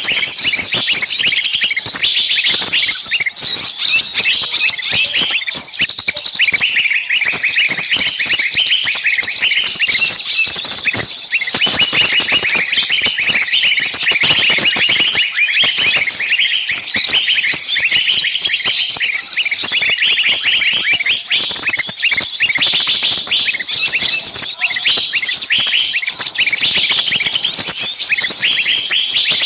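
Dense, unbroken chorus of many small songbirds chirping and calling at once. It is a bird-lure recording of noisy, screaming distress and alarm calls, as of small birds caught in a trap.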